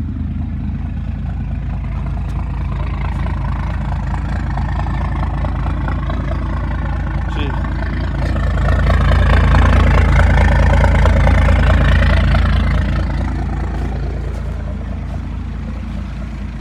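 1993 12-valve Cummins 5.9-litre inline-six diesel idling just after a cold start, running a little rough. The sound swells louder for about four seconds around the middle, then settles back to a steady idle.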